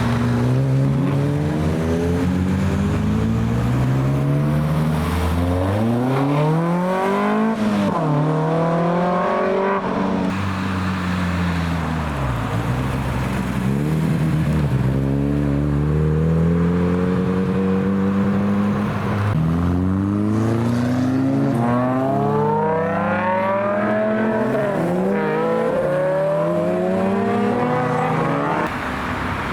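Cars' engines accelerating hard past the spot, pitch climbing through the revs and dropping at the gear changes, several times over, with dips in pitch as cars go by.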